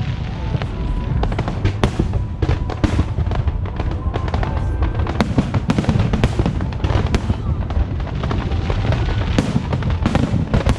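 Fireworks going off in rapid succession: many sharp bangs and crackles over a continuous low rumble, with music playing underneath.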